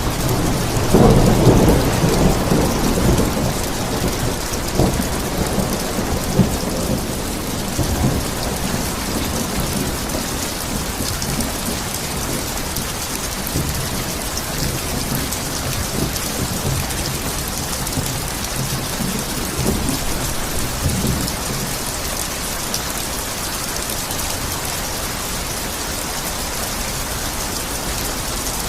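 Steady heavy rain falling, with a loud roll of thunder about a second in that fades over the next few seconds, and fainter thunder rumbles around six to eight seconds and again about twenty seconds in.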